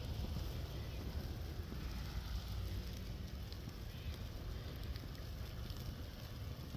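Wind in a snowstorm buffeting the microphone: a low, irregular rumble under a steady hiss.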